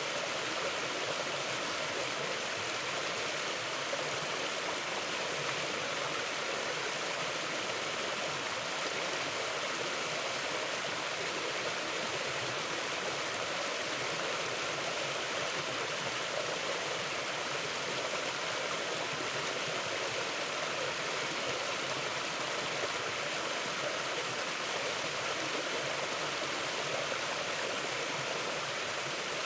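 Mountain river water flowing over rocks in a steady, even rush.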